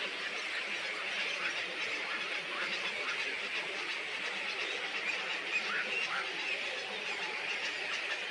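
Dense chorus of many small birds chirping and chattering at once, with a few short rising calls standing out about five to six seconds in.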